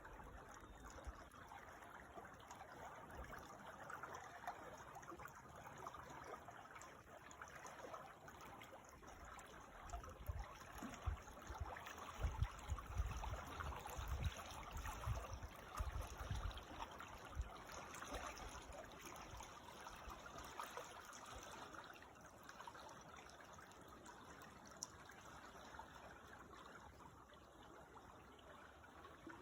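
Small creek flowing and trickling steadily, with some low rumbling bumps in the middle.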